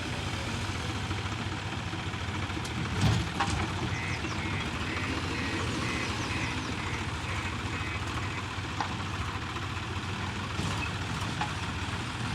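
Heavy diesel engine of earthmoving machinery running steadily, with a sharp clunk about three seconds in.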